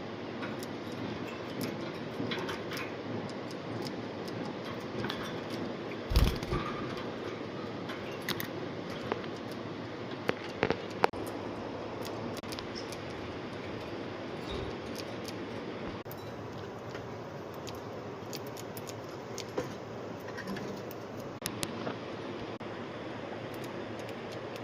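Budgies moving about a cage: scattered light clicks and scratches over a steady background hiss, with a louder knock about six seconds in and a few sharp clicks near eleven seconds.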